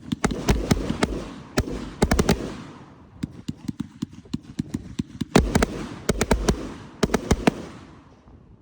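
Fireworks going off in rapid strings of sharp cracks and bangs, in two bursts, each trailing a crackling wash that fades; it dies away near the end.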